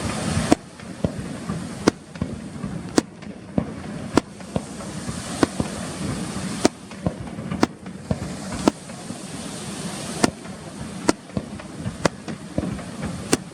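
Fireworks display: about fifteen sharp bangs from bursting shells, irregularly spaced at roughly one a second, over a steady background hiss.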